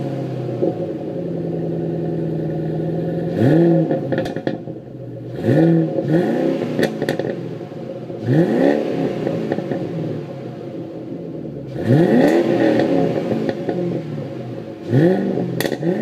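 2007 Mustang GT's 4.6-litre V8 through a Flowmaster American Thunder axle-back exhaust, idling steadily, then blipped about six times, each rev rising and falling back to idle, one longer rev near the middle.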